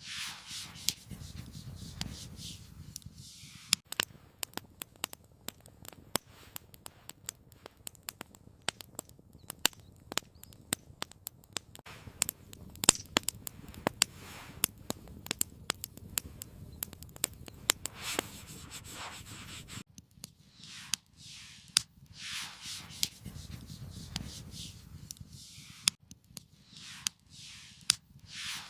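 Wood campfire crackling, with irregular sharp pops and snaps over a low steady rumble and a few short hissing swells.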